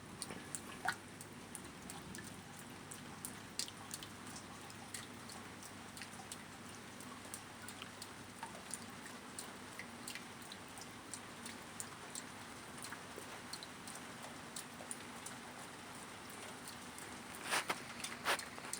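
Rain falling steadily, with many scattered drop ticks and two louder drip hits near the end.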